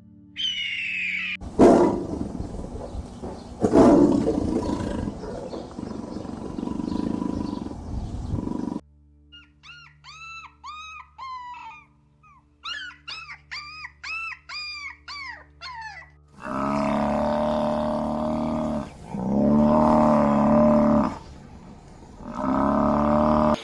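Recorded animal calls following one another. First come two loud, rough roar-like calls. Then a run of quick, rising-and-falling chirps, and finally three long calls of a few seconds each with a wavering pitch.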